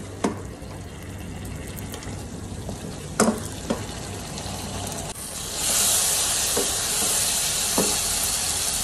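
Chicken and capsicum frying on a high flame in a pan while being stirred with a wooden spoon. The spoon gives a few light knocks against the pan. The sizzling gets noticeably louder about five and a half seconds in.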